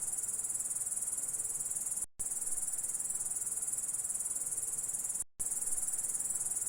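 Grasshopper chirping: a steady, high-pitched, fast-pulsing trill, cut off briefly twice.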